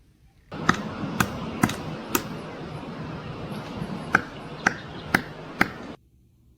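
A woodpecker pecking, sharp single taps about two a second: four taps, a pause of about two seconds, then four more, over a steady background hiss.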